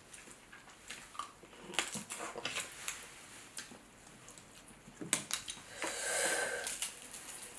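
Close-up eating sounds of seafood-boil crab: scattered clicks and crackles of shell being bitten and handled, along with chewing and sucking, and a longer noisy stretch about six seconds in.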